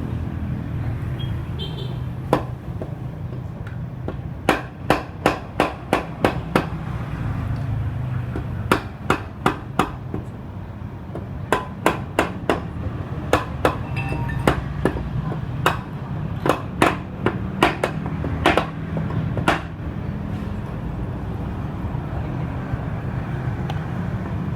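Hammer blows in quick runs of several strikes each, over a steady low background rumble, typical of knocking parts loose while stripping a Honda Spacy scooter engine.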